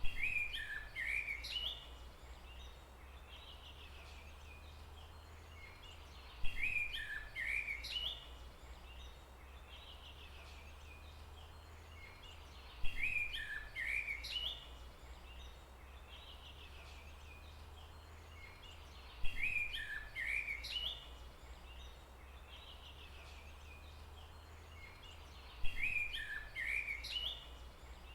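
A short bird song phrase of quick chirping notes, about two seconds long, repeats five times, once every six and a half seconds, identical each time as in a loop. Under it runs a steady low hum and faint background hiss.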